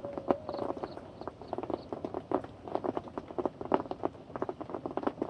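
Rain pattering: an irregular run of light taps, several a second.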